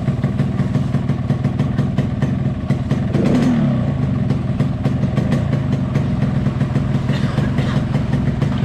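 Yamaha RX-King's two-stroke single-cylinder engine running steadily at idle while being tuned, with a brief rise and fall in pitch about three seconds in.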